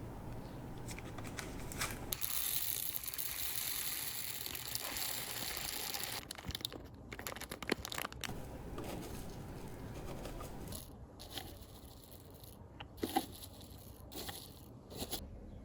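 Plastic bead packaging crinkling and rustling as it is unpacked, densest in the first few seconds, then giving way to scattered small clicks and rustles.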